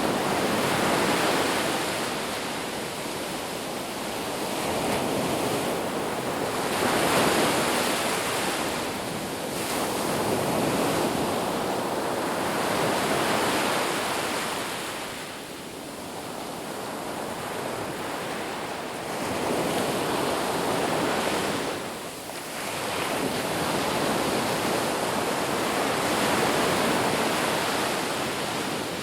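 Sea waves washing onto a shore, a continuous surf rush that swells and ebbs every few seconds as each wave breaks and draws back.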